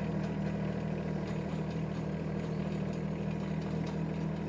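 Shanding 1.2-ton mini excavator engine running steadily above idle, not revved out, while the machine tracks forward in low travel speed.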